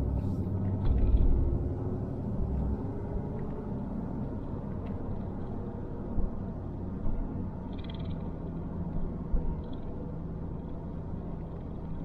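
A car driving slowly, its engine and tyres making a steady low rumble that is louder for the first couple of seconds, with a few light knocks along the way.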